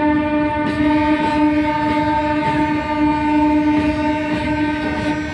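Train horn sounding one long, steady blast over the rumble of a train.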